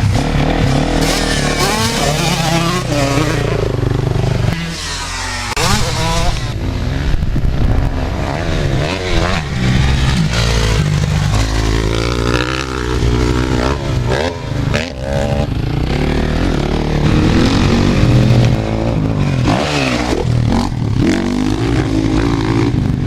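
Several motocross dirt bikes running on a track, engines revving up and down as they accelerate and change gear, with more than one bike heard at once.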